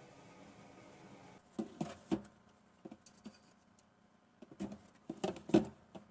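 A low steady hum that stops about a second and a half in, then a run of irregular light clicks and knocks in two clusters. The sharpest knock comes near the end.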